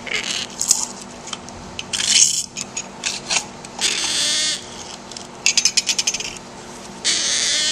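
Imperial Amazon parrot chick giving a series of noisy food-begging calls while being hand-fed formula: short bursts, a rapid stutter of pulses a little past the middle, and longer calls of about half a second near the middle and near the end.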